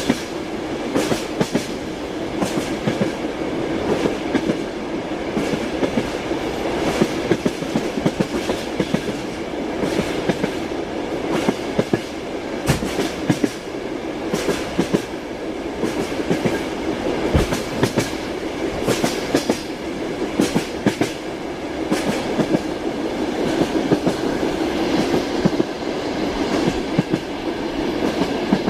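A moving train's wheels clattering over the rail joints: a steady rolling rumble with frequent sharp clacks.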